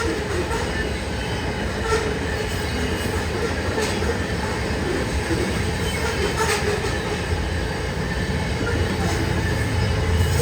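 A train rolling past: a steady low rumble of wheels on rail, with a sharp click every couple of seconds.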